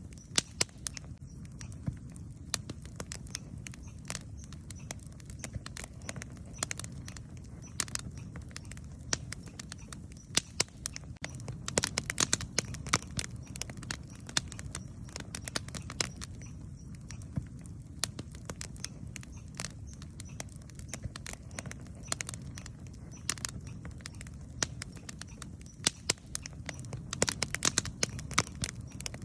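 Wood campfire crackling with irregular sharp pops over a steady low rumble of the burning fire; the crackles come thicker about twelve seconds in and again near the end.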